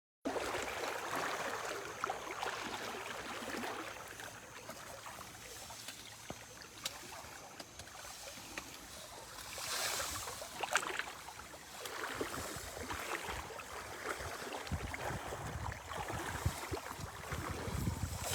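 Running river water with scattered small knocks, and wind buffeting the microphone in the second half.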